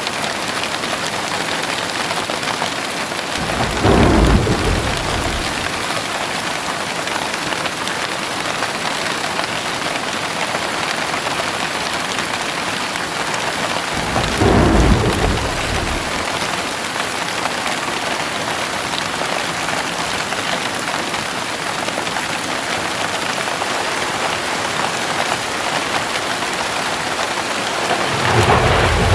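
Heavy rain falling steadily, with three short rolls of thunder: one about four seconds in, one about halfway through, and one starting near the end.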